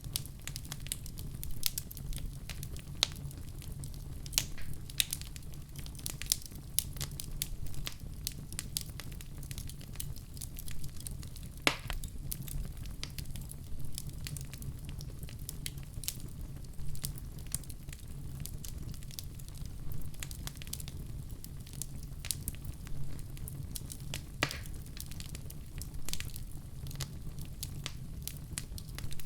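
Wood fire in a fireplace crackling: frequent small snaps and pops over a low steady rumble, with two louder pops, one a little before halfway and one near the end.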